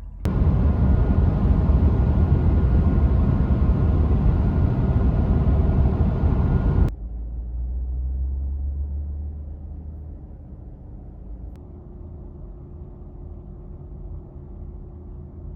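Ford F-150 pickup truck driving at road speed, loud engine and road noise for about the first seven seconds. It then cuts suddenly to a much quieter low rumble of the truck that eases off further near the middle.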